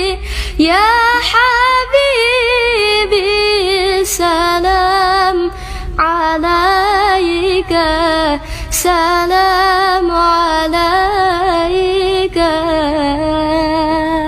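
A girl's clear, high voice singing sholawat, an Arabic devotional song, in long ornamented phrases with wavering, embellished notes. A few short clicks fall between phrases.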